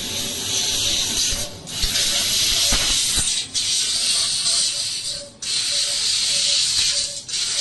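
Hissing of the cutting gas from a P2060 fiber laser tube cutting machine's cutting head at work, steady and loud, with short breaks about every two seconds.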